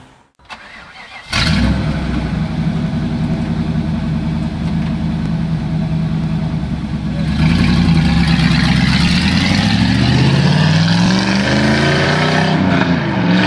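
Chevrolet Camaro Z28's LT1 5.7-litre V8 with a Magnaflow exhaust starting about a second in, then idling steadily. About seven seconds in it gets louder, its pitch rising and falling as it revs and pulls away.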